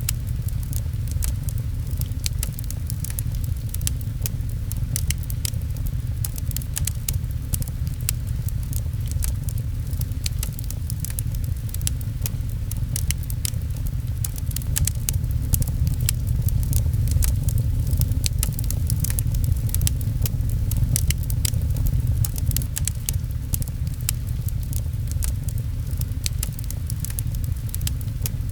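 Fireplace crackling with many sharp pops, over rain pattering on a window and a steady low rumble, which is the loudest part.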